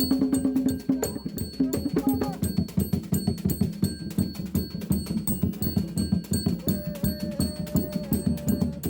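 Giriama traditional drums played fast in a steady, driving rhythm, with a few long held notes sung over them.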